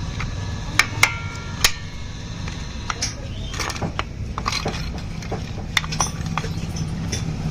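Metal tools and scooter parts clinking against each other: a few sharp, ringing clinks about a second in, then scattered lighter clicks over a steady low hum.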